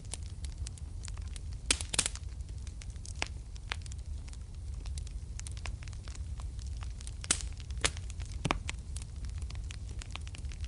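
Wood fire burning in a fireplace: a steady low rumble of the flames with irregular sharp crackles and pops, the loudest a pair about two seconds in and two more about seven to eight seconds in.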